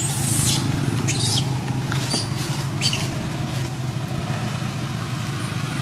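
A baby macaque's short, high squeaks, four or five of them in the first three seconds, over a steady low mechanical hum.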